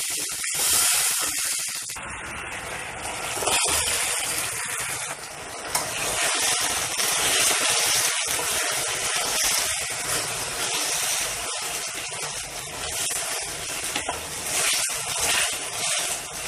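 Honey-chilli sauce sizzling in a hot stainless steel kadai while fried chicken pieces are tossed through it with a wooden spatula. The hiss swells and eases with the stirring, and the spatula knocks against the pan now and then.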